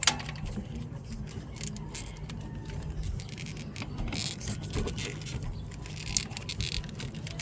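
Scattered clicks and scrapes of a wrench and serpentine belt being worked off the pulleys while the belt tensioner is held down, over a steady low hum.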